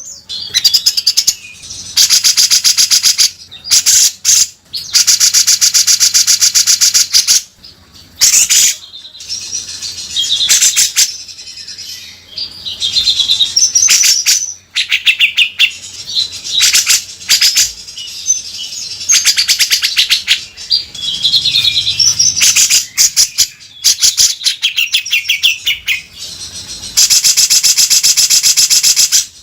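Cucak jenggot (grey-cheeked bulbul) calling loudly in long bouts of harsh, very rapid rattling rasps, broken by short warbled whistling phrases.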